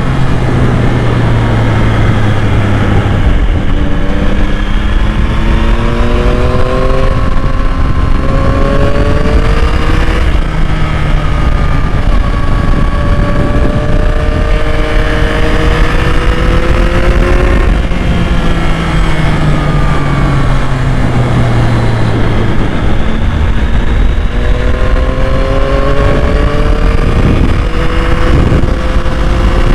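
2021 Yamaha MT-09's 890 cc inline-three engine being ridden, its note climbing under acceleration and dropping back at gear changes or on easing off, several times over, against a steady rush of wind and road noise.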